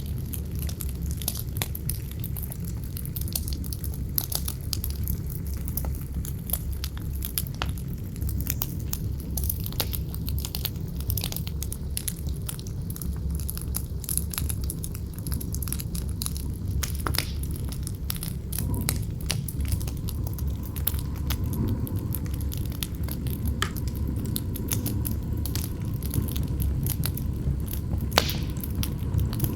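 Campfire burning with a dense stream of sharp crackles and pops over a steady low rumble of wind.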